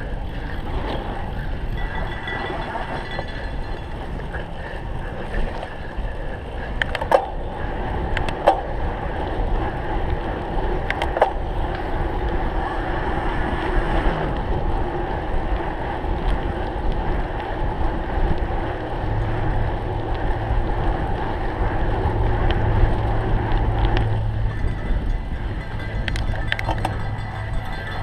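A cyclocross bike being ridden over rough ground, with a steady rumble of tyres and wind on the microphone and a few sharp rattling clicks. A steady low hum joins about two-thirds of the way through.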